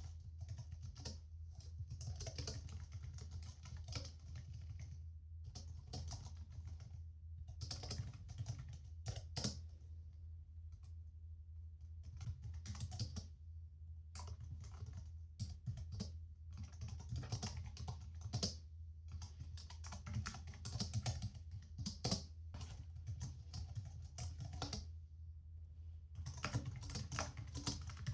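Typing on a computer keyboard: quick runs of key clicks broken by short pauses every few seconds, over a steady low background hum.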